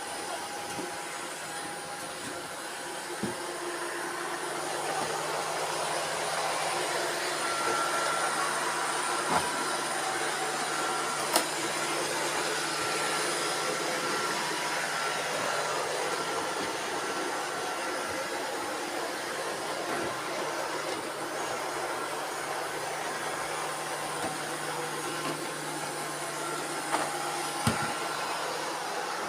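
Several robot vacuum cleaners running at once, a steady whirring with a low hum and a few faint whining tones. A few sharp knocks stand out over the whir, spaced several seconds apart.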